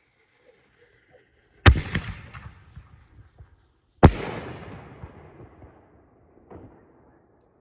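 Black Cat Neon Diablo 5-inch canister shells going off: two sharp, loud bangs about two and a half seconds apart, each followed by a long fading rumble. A smaller pop comes near the end.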